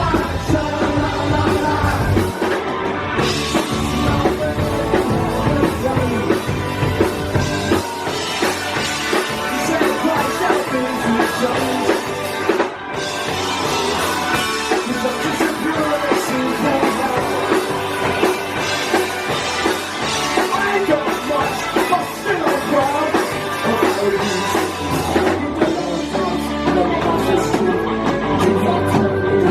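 A live rock band playing a song, loud and without a break.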